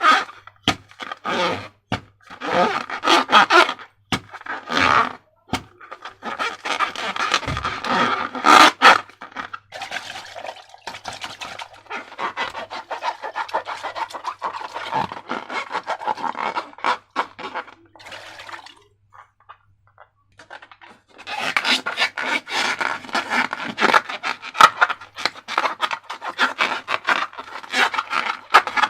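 Hands handling balloons and slime-making materials: irregular scraping and rubbing with scattered clicks and taps, broken by a pause of about two seconds roughly two-thirds of the way through.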